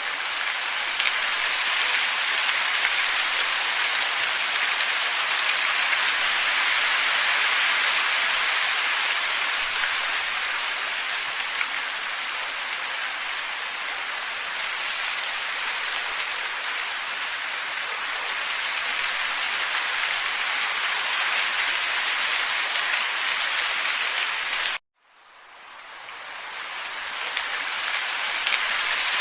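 Steady, even hiss of a wind ambience track. It cuts out abruptly about 25 seconds in and fades back up over a couple of seconds, like a loop being restarted.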